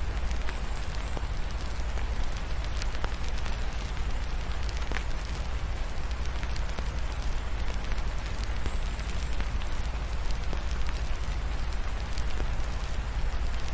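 Wood fire crackling with scattered sharp pops over a steady hiss of rain, with a low rumble underneath.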